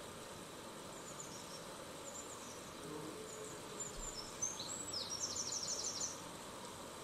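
A small bird twittering with high, short gliding chirps over a steady background hiss, ending in a fast trill of about eight notes.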